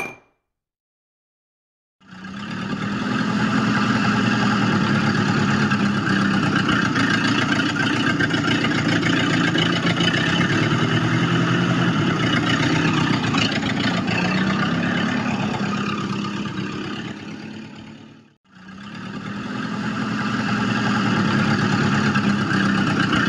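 A small motor running steadily with a constant whir. It fades in after about two seconds, dies away about three-quarters of the way through, then comes back.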